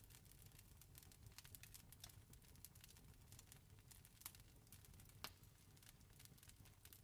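Wood fire crackling faintly, with irregular snaps and pops over a low steady rumble; two slightly louder pops come about four and five seconds in.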